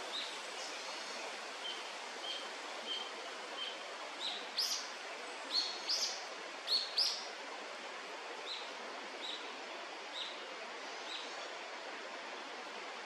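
A bird's short, high calls, repeated about every half second to second, with a run of louder, sharp rising notes in the middle, over a steady outdoor hiss.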